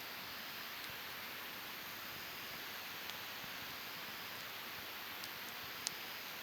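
Wood campfire burning with a steady hiss and a few sharp crackling pops, the loudest near the end.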